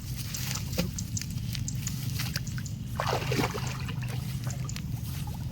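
Shallow creek water sloshing and splashing as someone wades and feels through it by hand for fish, with a louder splash about three seconds in.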